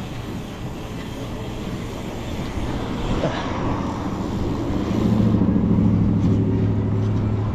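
Wind and rolling noise of a bicycle riding among traffic, then about five seconds in a motor vehicle's engine running close by with a steady low hum, the loudest sound from there on.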